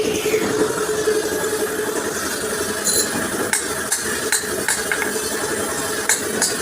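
Sharp metallic taps and clicks of hand tools working on metal, about eight of them at irregular spacing in the second half, over a steady engine-like hum.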